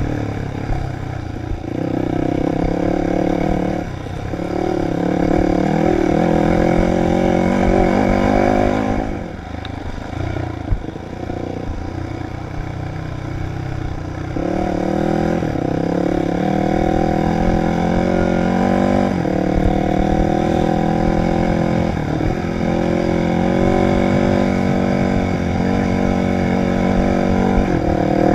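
Dirt bike engine being ridden under throttle, its pitch rising and falling as the rider works the throttle and gears. About nine seconds in it eases off for roughly five seconds, then pulls hard again.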